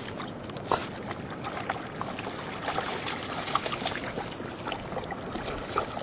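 Mountain river running over a shallow bed, a steady rush of water with many short, sharp sounds scattered through it.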